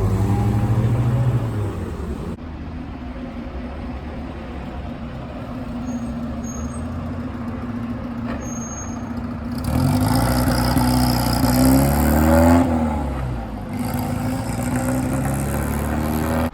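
Car engines running as vehicles drive past one after another. One passes at the start with its pitch dropping away, and a louder one comes by about ten seconds in, its engine note rising and then falling as it goes past.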